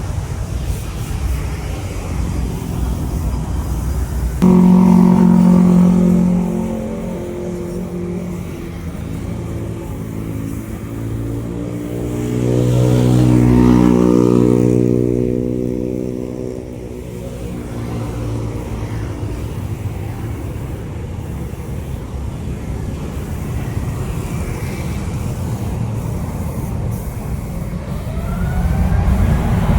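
A passing vehicle's engine: a loud hum cuts in abruptly a few seconds in, then a second engine sound swells to a peak near the middle and fades away, over a steady low rumble of traffic.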